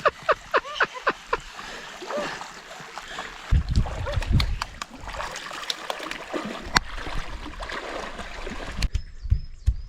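Lake water splashing and sloshing around a swimmer, over a steady noisy hiss. There is a quick run of short, squeaky pitched sounds in the first second and a half, and low rumbling thumps on the microphone in the middle and later part.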